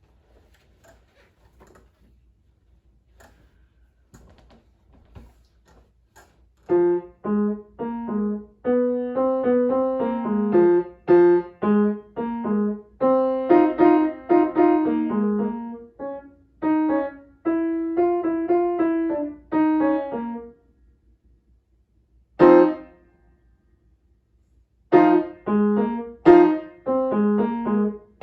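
Piano being played. After several quiet seconds it starts in with short, detached chords and runs of notes. Near the end it stops twice, with a single loud chord struck between the two pauses.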